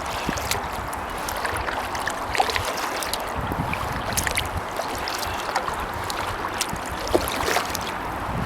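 Kayak paddling: water washing and splashing along the hull and off the paddle blades, with many small irregular drips and splashes throughout.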